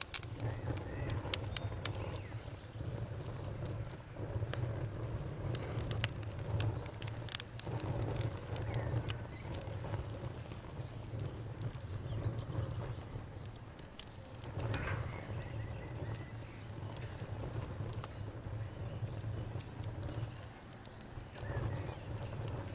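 Wood campfire crackling. Sharp pops and snaps are scattered over a steady low rumble of the burning fire, and they come thickest in the first couple of seconds.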